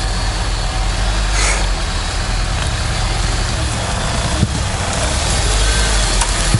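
Off-road vehicle engine running steadily at low revs, with one faint knock about four and a half seconds in.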